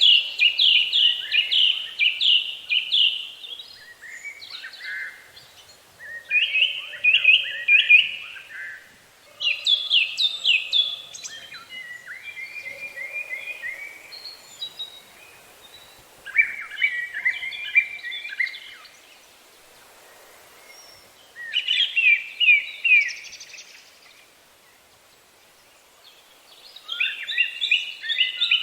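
Songbird singing: short phrases of fast, repeated high notes, one phrase every few seconds with pauses between.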